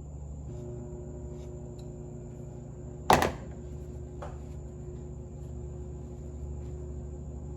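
A single sharp knock about three seconds in, with a lighter click a second later, as steering box parts and tools are handled on a workbench, over a steady hum in the background.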